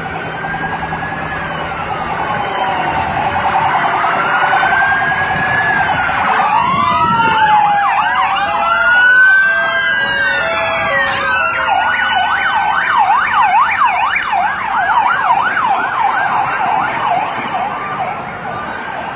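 Several police car sirens sounding at once, their slow wailing sweeps overlapping. About two-thirds of the way in, a fast yelp takes over, and the sirens fade a little near the end.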